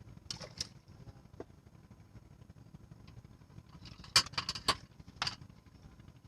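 Steady low rumble of wind on the microphone, broken by short crackling clicks and rattles, in a quick cluster a little past the middle.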